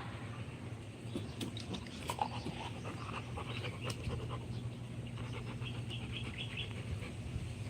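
Rottweiler panting, with scattered short clicks and a steady low hum underneath.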